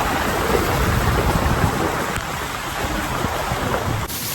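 Heavy rain with water streaming and running off, with wind buffeting the microphone. Near the end it cuts abruptly to a quieter, steady hiss.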